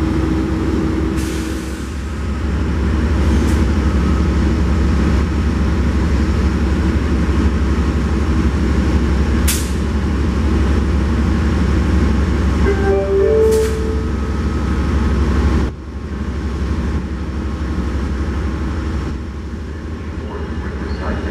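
A train running with a steady, heavy low rumble, broken by a few short sharp sounds. The sound drops abruptly about three-quarters of the way through.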